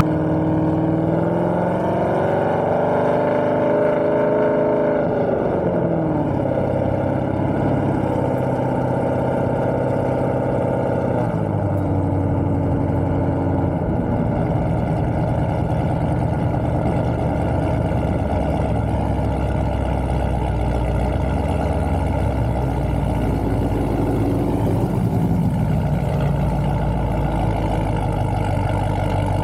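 A car engine running, its pitch rising over the first few seconds, falling away a few seconds later, then holding steady with small revs and a short rise near the end.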